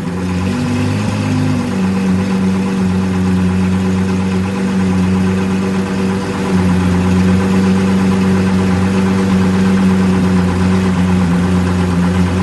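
Lamborghini Aventador LP700-4's naturally aspirated V12 idling steadily through a Fi Exhaust valvetronic exhaust with catless downpipes. The pitch wavers slightly in the first couple of seconds, then holds even.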